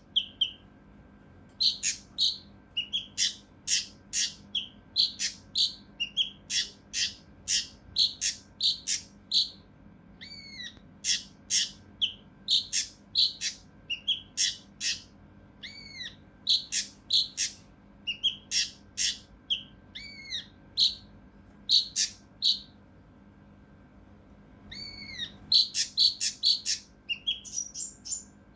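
A kinoi (cucak rante mas) singing in a rapid series of harsh, sharp call notes, the close-set 'shots' of an agitated bird. Curved, whistled notes are mixed in. The song breaks off briefly about 23 seconds in, then resumes in a quick burst.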